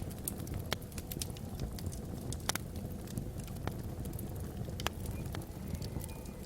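Wood fire burning in a fireplace: irregular sharp crackles and pops from the burning logs over a low, steady rumble.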